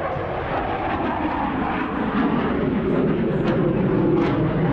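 Jet aircraft flying past, its engine noise a continuous rushing drone that gradually grows louder while its pitch slides lower.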